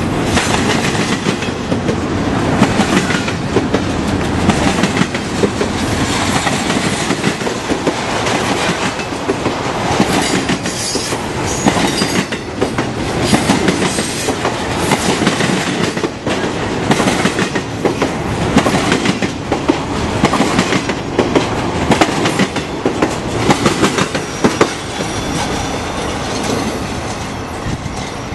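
Train cars rolling past, with steady rumble and a run of wheel clicks over the rail joints. A faint wheel squeal comes in around the middle, and the sound eases off near the end as the train moves away.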